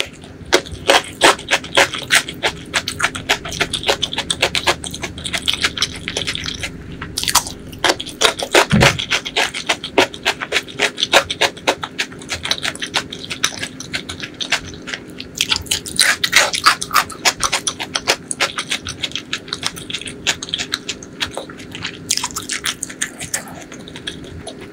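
Close-miked chewing of a crisp cucumber slice: dense crunching with wet mouth clicks, and a dull thump about nine seconds in.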